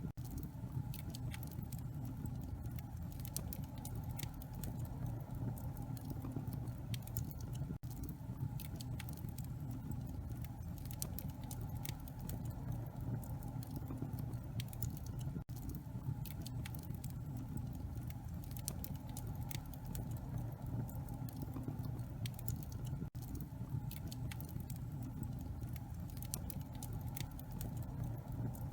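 Wood fire burning in a fireplace: a steady low rumble of flames with frequent small, sharp crackles and pops, and a brief dip about every eight seconds.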